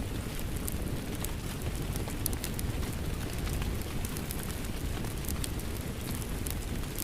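Crackling wood fire mixed with steady rain: a continuous low rush of rain with frequent sharp pops and crackles from the burning wood.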